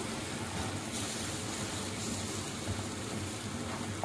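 Tomato purée bubbling and sizzling in hot oil in a pan: a steady hiss with a faint low hum beneath.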